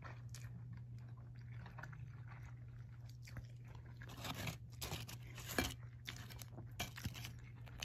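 Faint crunchy chewing, a handful of short crackly bites mostly in the second half, over a steady low hum.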